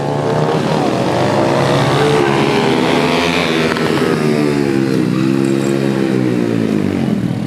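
Several racing pit bikes' small engines revving together, their pitches rising and falling as the riders work the throttle and gears. The sound builds in the first second and stays loud.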